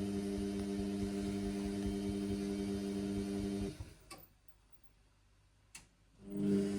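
Indesit washing machine motor humming as it turns the drum on a synthetics wash, then cutting out a little over halfway for a pause of about two and a half seconds with a couple of clicks, and starting up again near the end: the pause between the drum's turns in the wash tumble.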